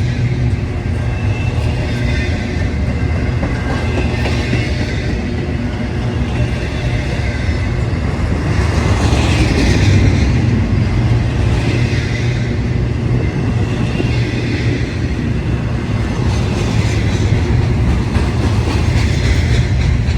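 A train rolling past at close range: a steady rumble of wheels on rail with a clatter of railroad cars, swelling slightly partway through.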